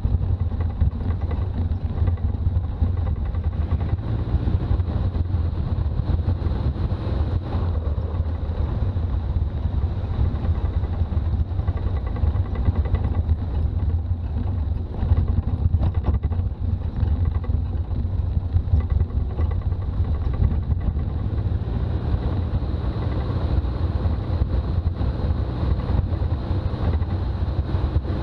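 Toyota BJ40 Land Cruiser's diesel engine and road noise while driving, a steady low rumble.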